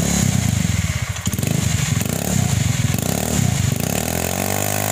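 Honda Beat scooter's single-cylinder engine running through a gutted (hollowed-out) muffler, revved in short blips, then rising about four seconds in to a held high rev.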